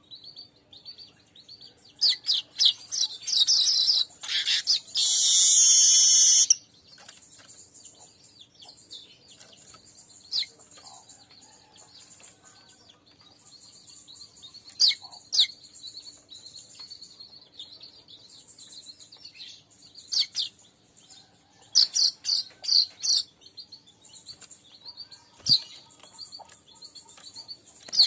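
Streaked weavers (manyar) calling: scattered sharp, high chirps, with a loud run of chattering notes about two seconds in that turns into a buzzing wheeze lasting a few seconds. Quick clusters of chirps follow later.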